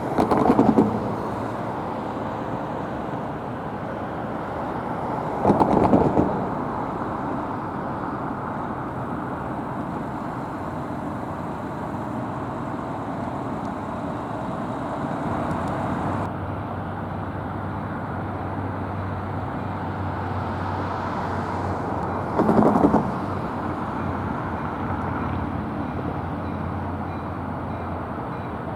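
Steady street-side traffic noise with three short, loud passes or blasts: one at the very start, one about six seconds in and one near 23 seconds. A low steady rumble sets in about halfway through.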